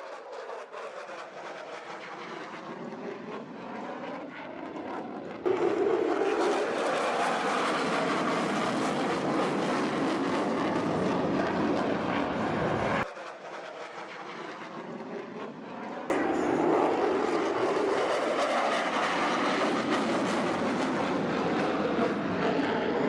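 Jet aircraft flying past, its engine noise made up of a few spliced clips. The noise jumps louder about five seconds in, drops suddenly near thirteen seconds and comes back loud at about sixteen seconds.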